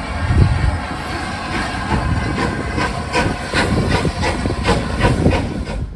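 Steam locomotive working, with exhaust beats coming about three times a second over a steady hiss.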